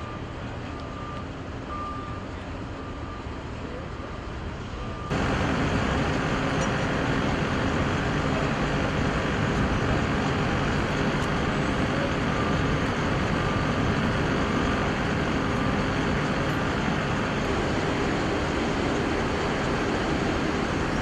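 Steady motor-vehicle rumble, with short repeated beeps in the first five seconds. About five seconds in the rumble abruptly gets louder and then stays steady.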